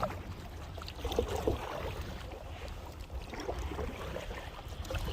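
Paddle strokes splashing in the water as a NuCanoe Pursuit paddle kayak is turned, over a steady low rumble of wind on the microphone.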